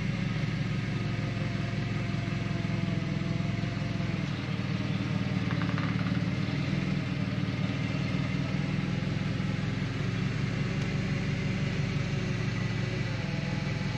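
A combustion engine idling steadily, with an even low pulse and no change in speed.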